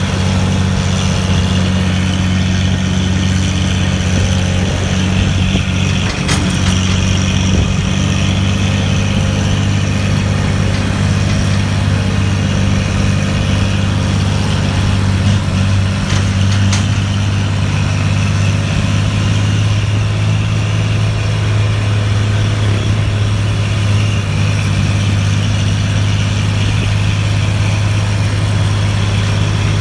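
Mitsubishi Fuso truck's diesel engine running steadily under load as the truck climbs a hill, with a deep even drone and a couple of brief clicks.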